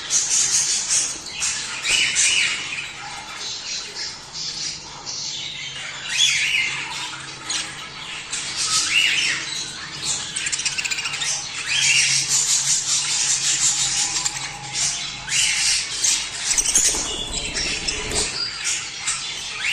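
A flock of budgerigars chattering and warbling continuously, with many overlapping chirps and frequent sharp squawks.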